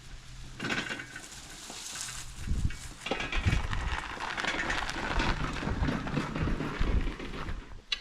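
Rustling and crackling of leafy vegetable tops and soil with soft thumps, busier and louder from about three seconds in, as root vegetables are pulled from the garden bed.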